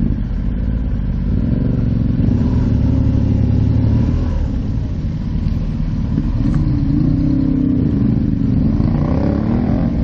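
Motorcycle engine running under way, its note climbing over a couple of seconds, dropping back, then rising and wavering again with the throttle, over a constant low rumble.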